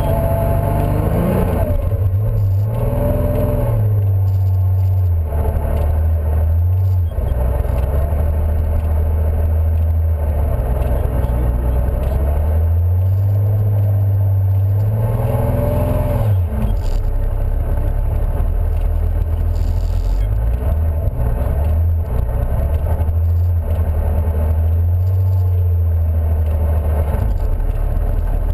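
Car engine heard from inside the cabin while driving, pulling up in pitch and dropping at gear changes a few times, with steadier running in between over constant tyre and road noise.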